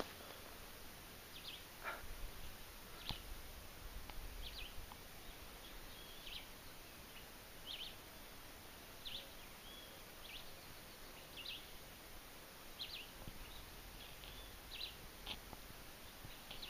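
A bird repeating a short, high chirp every second or so, faint against the outdoor background.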